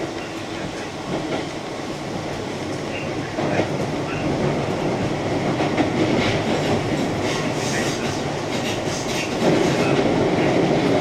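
Keihan Main Line electric train running, heard from inside the front car: steady rolling noise with wheels clicking over rail joints, growing louder about three and a half seconds in and again near the end.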